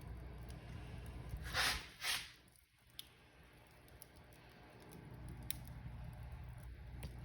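Wood fire burning in a fireplace: a steady low rumble of flames with scattered sharp crackles and pops, and two short hissing swells about one and a half and two seconds in.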